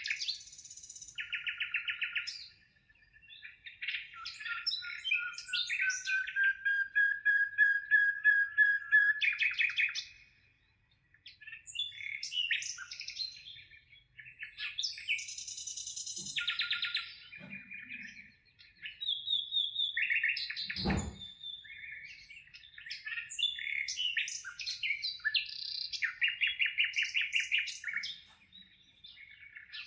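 Small birds singing and calling: bursts of rapid trills, chirps and a slowly rising whistled phrase, broken by short pauses. A single brief knock comes about two-thirds of the way through.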